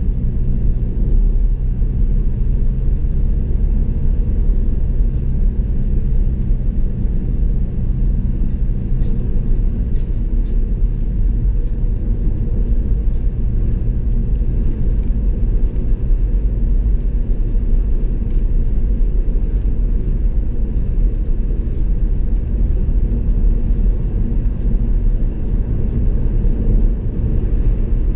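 Steady road noise from inside a moving car: a deep, even rumble of tyres and engine with no change in pace.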